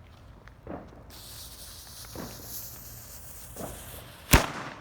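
A lit firework hissing, starting about a second in, then one sharp bang near the end.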